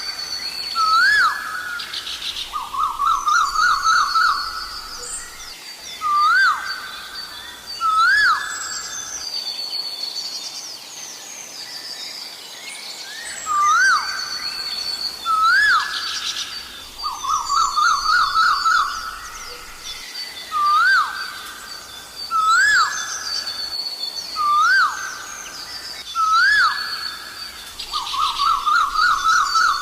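Asian koel calling: single rising notes, often in pairs a second or so apart, alternate every few seconds with a quick run of about eight rising notes. Smaller birds chirp and trill at a higher pitch in the background.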